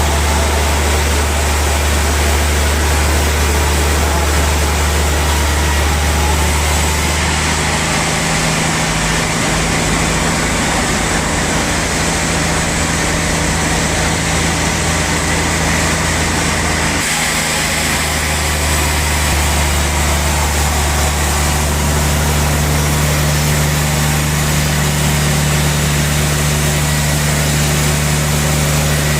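Sawmill machinery running steadily: a constant low engine-like hum over a hiss. The pitch of the hum shifts about a quarter of the way in and again just past halfway.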